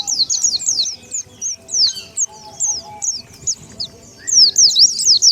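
White-eyes (pleci) chirping in a rapid run of high, thin calls, sparse for a few seconds in the middle and dense again near the end: a pleci lure call for drawing in wild white-eyes.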